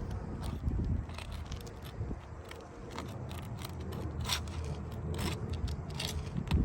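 Metal roofing snake worked under asphalt shingles: irregular scraping and short clicks as it breaks the adhesive seal strip and pries at the nails, over a low steady rumble.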